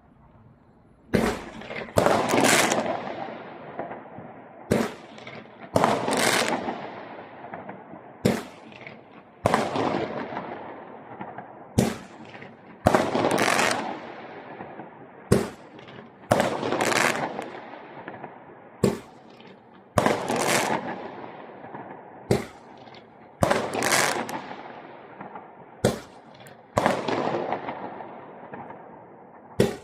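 A ten-shot consumer fireworks cake, "Gorod Ogney" (City of Lights), firing shot after shot. Each shot is a sharp launch thump followed about a second later by a loud bang with a long fading tail, repeating roughly every three and a half seconds, nine times.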